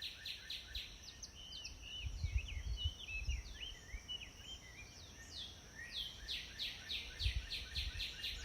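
Birds singing: a rapid series of short, falling high notes, about five a second, that gives way to varied twittering chirps in the middle and returns near the end, over a low rumble.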